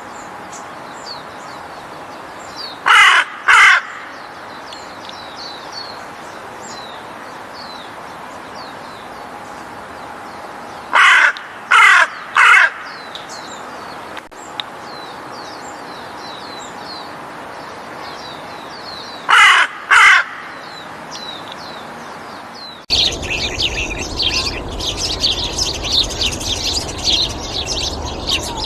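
Harsh crow-like caws in groups of two or three, well spaced, over faint high chirping of small birds. About 23 seconds in, the sound switches to a louder, dense chorus of high bird chirps.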